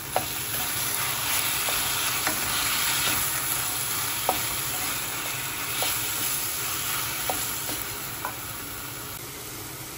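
Chopped tomatoes and onions sizzling in a hot wok as a wooden spatula stirs them, with a few sharp clicks of the spatula knocking against the pan.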